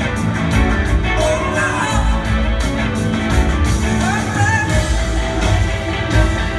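Live rock band playing at full volume: drums keeping a steady beat under bass, guitars and vocals.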